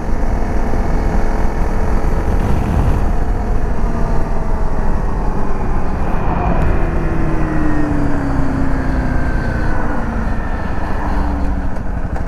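Dirt bike engine running while riding, under a heavy rush of wind noise. From about halfway through, an engine note falls steadily in pitch for several seconds.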